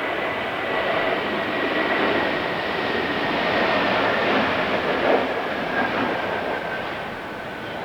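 Airbus A321neo jet engines during a landing, a loud steady rush with a thin whine slowly falling in pitch, easing off near the end.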